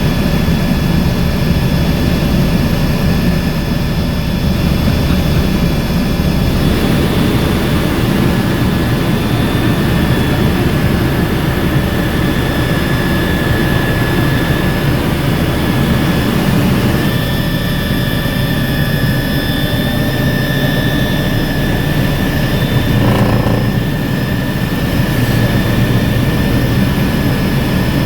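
MBB Bo 105 helicopter running in flight: its twin turboshaft engines and rotor make a steady high whine over a dense low rumble, shifting slightly a few times as the power changes.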